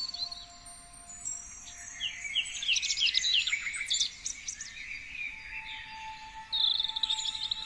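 Several songbirds chirping and trilling. A quick run of high chirps comes about two to four seconds in, and a fast trill near the end. Faint steady tones run underneath.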